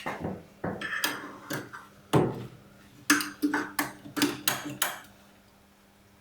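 Metal tools clinking and knocking as they are handled, about ten sharp hits over the first five seconds, stopping about five seconds in.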